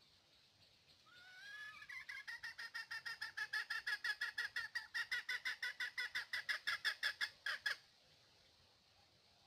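A bird calling: a fast run of short, clear notes, about seven a second, that climbs in pitch over the first second, then holds steady for about six seconds and stops abruptly.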